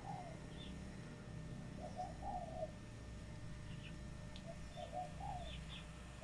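Spotted dove cooing: phrases of a few short notes ending in a longer coo, repeated about every three seconds. Faint high chirps of small birds and a steady low hum lie under it.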